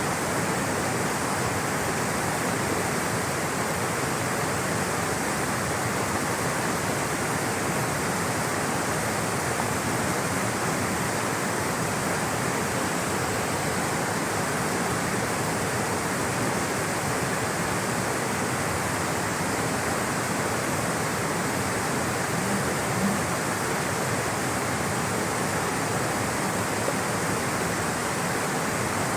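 Rushing water flowing steadily, an even unbroken rush.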